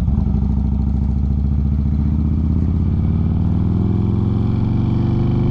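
Harley-Davidson V-twin motorcycle engine running under way. It holds steady at first, then its pitch rises gradually through the second half as the bike accelerates.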